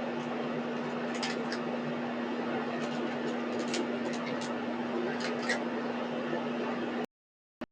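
Steady low hum over an even rushing background noise, cutting out to dead silence for about half a second near the end.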